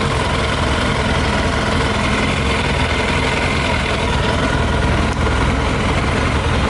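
Yamaha YZF 600R's inline four-cylinder engine idling steadily while running on whisky in the tank, a fuel mixture that by now looks like water with petrol.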